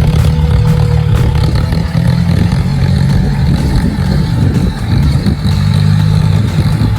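Tractor engine running steadily in a low, even drone, with short dips in level twice and some clatter.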